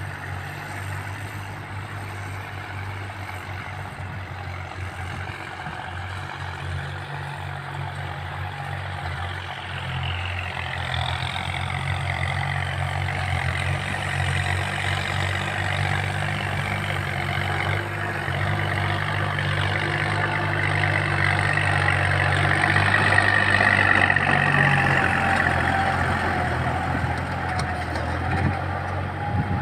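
Kubota tractor engine running steadily while rotary-tilling a rice paddy, growing louder to a peak about three-quarters of the way through as it comes closer, then easing off slightly.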